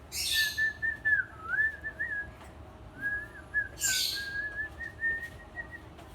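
Two short harsh squawks from a pet bird, one at the start and one about four seconds in, over a long wavering whistle that breaks off briefly in the middle.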